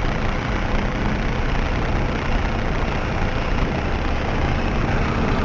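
Ford F-150 pickup truck driving across lake ice, heard from inside the cab: a steady low engine hum under even road noise.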